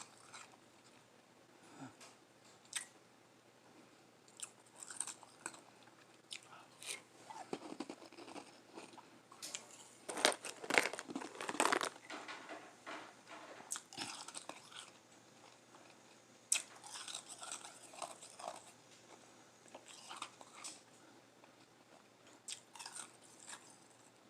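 Close-up eating of lime-flavoured Igloo ice: bites and chewing of soft, crunchy ice, in irregular crackling bursts with the loudest, densest stretch of crunching near the middle.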